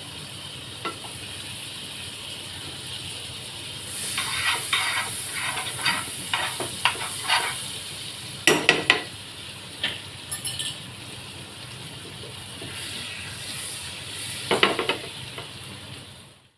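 Marinated chicken pieces frying in hot oil with a steady sizzle. A spoon scrapes and clinks against the pan in short runs, with the sharpest knocks about halfway through and again near the end.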